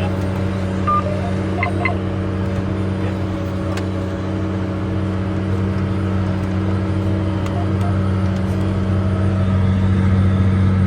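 Case 385 tractor's turbo diesel engine running steadily under load with a low, even hum, growing slightly louder near the end. A few short electronic beeps sound about one to two seconds in.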